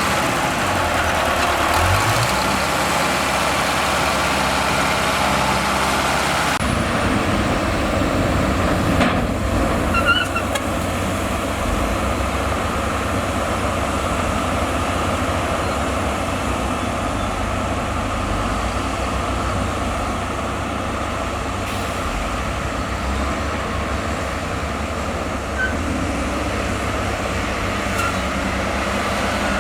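Heavy diesel earthmoving machinery running steadily, with the engine note changing abruptly about six seconds in and a few faint short squeaks.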